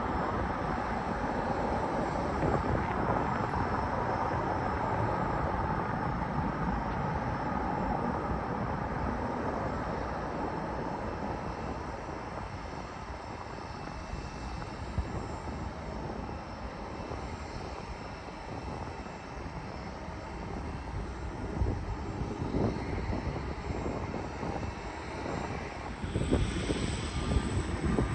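Jet airliner's engines rushing past on landing approach, fading away over the first half, then growing louder again near the end as more aircraft noise comes in.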